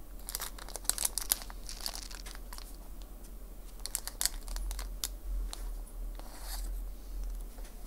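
Scattered small clicks and crinkling rustles of small parts and packaging being handled on an electronics repair bench.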